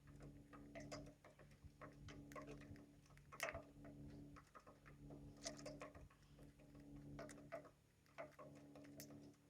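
Lovebirds cracking and nibbling seeds with their beaks: faint, irregular small clicks and cracks, a few a second, over a steady low hum.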